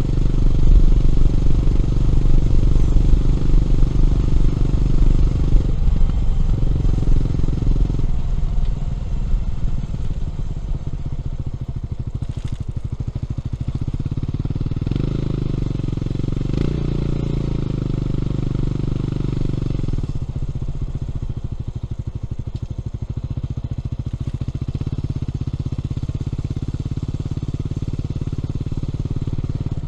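Honda CB400SS single-cylinder engine running through a Yamamoto A-spec exhaust while the bike is ridden. The engine note is louder for the first several seconds, then settles steadier and a little quieter. Its note changes in sudden steps several times along the way.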